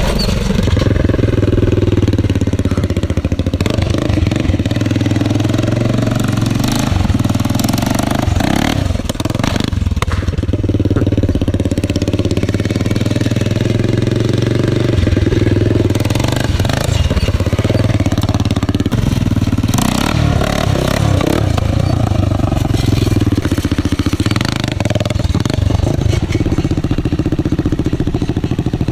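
Honda 400EX quad's single-cylinder four-stroke engine running through a makeshift custom muffler, revving up and easing off as it is ridden.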